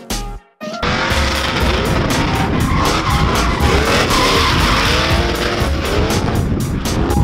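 Drift cars on track: engines revving up and down and tyres squealing, starting abruptly about a second in, over background music with a steady beat.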